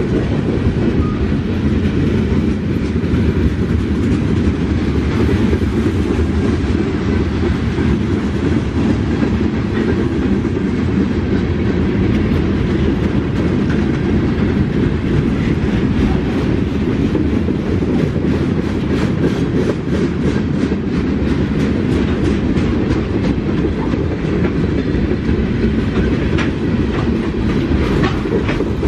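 Freight cars, open hoppers and tank cars, rolling past close by: a loud, steady rumble of wheels on rail with frequent clicks as the wheels cross rail joints, the clicks coming thicker in the second half.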